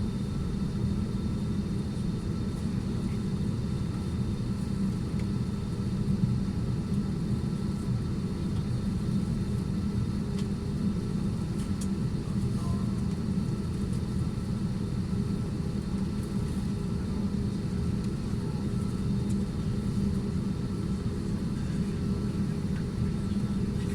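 Steady low rumble and hum inside a parked airliner's cabin before departure, with a few faint steady tones above the rumble.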